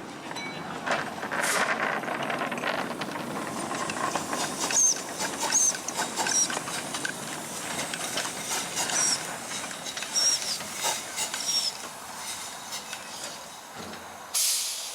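Miniature live-steam locomotive hissing steam, the hiss surging unevenly, with a sharp, loud burst of hiss near the end.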